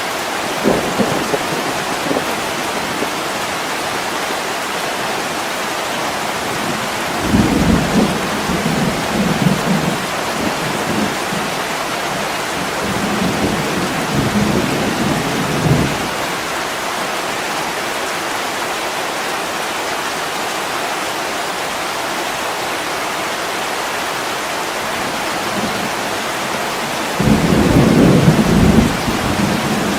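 Heavy rain pouring steadily against a window pane, with low rumbles of thunder rolling in three times: about seven seconds in, around the middle, and the loudest near the end.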